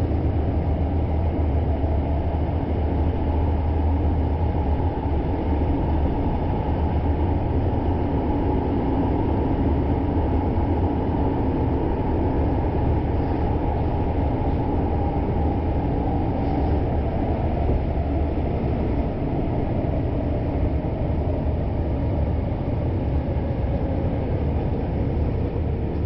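Kyoto Municipal Subway Karasuma Line train running between stations, heard inside the carriage: a steady, even rumble of wheels on rails and running gear, with faint gliding whines in the middle.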